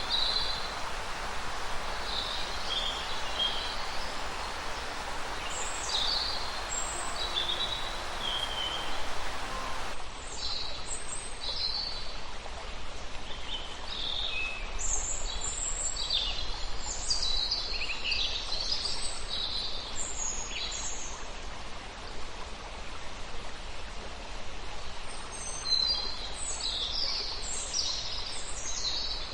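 Several songbirds chirping and singing in short, overlapping phrases. For the first ten seconds a steady rushing hiss like running water lies under them, then it stops abruptly and the birdsong becomes busier.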